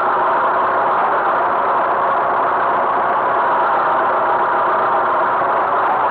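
Tractor engine running steadily, a constant drone that holds the same pitch and level throughout.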